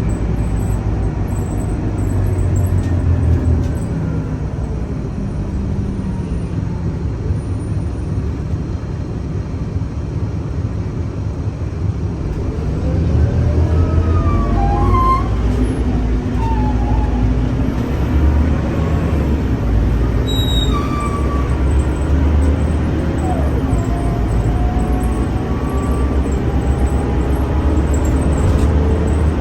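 Scania K310UA bus's diesel engine running as the bus drives, with a low hum and a faint whine. About 13 seconds in, the engine note rises and grows louder as the bus accelerates.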